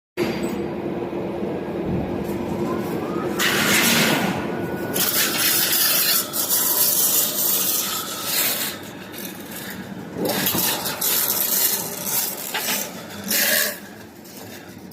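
A factory machine working PVC window profile, running with a steady hum. Louder stretches of rubbing, scraping noise come in about three and a half seconds in and again from about five to eight seconds, then ease off.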